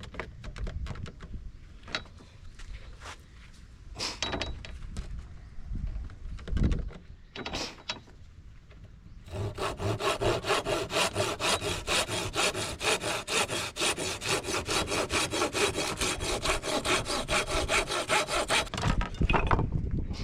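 Hand saw cutting through wood with quick, even strokes, starting about nine seconds in and stopping shortly before the end, after a few scattered knocks and clatters from handling.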